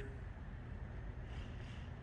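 Quiet room tone of a shop: a low, steady background hum with a faint soft rustle about halfway through.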